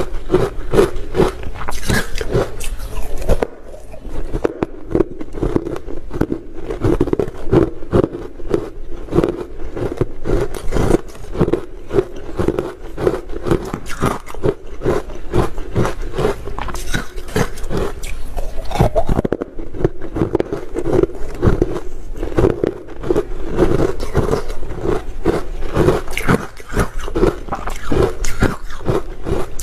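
Close-up ice eating: a person biting and chewing crunchy ice, a dense, continuous run of crunches and crackles.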